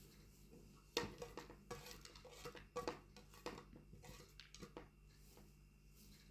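Dishes and utensils clinking and knocking as they are handled: a run of light clatters that starts sharply about a second in and dies away after a few seconds.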